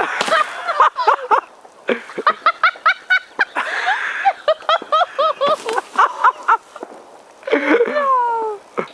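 People laughing hard in quick runs of short bursts, with a few sharp firework pops mixed in.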